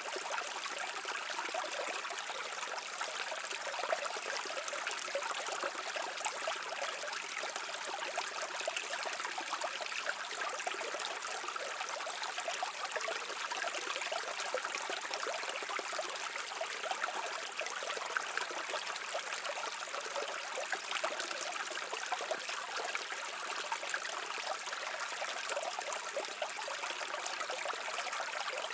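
Shallow stream of water running and trickling over rocks, a steady babbling with small splashes and no other sounds.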